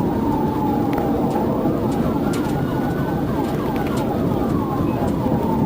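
Police car siren over heavy engine and road noise. A slow falling wail switches to a fast yelp for a couple of seconds around the middle, then goes back to a slow wail.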